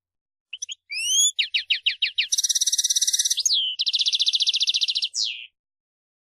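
European goldfinch singing one phrase: a few short high notes and rising slurs, a run of quick falling notes, then two long rapid buzzy trills, ending on a falling note.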